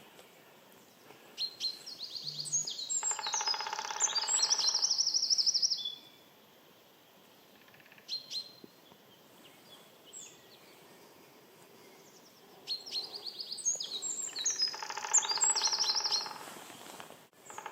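Bird song in two bouts about ten seconds apart, each a run of quick high notes and rapid trills lasting about four seconds. A lower buzzing rattle runs under the second half of each bout. Faint single calls fall in between.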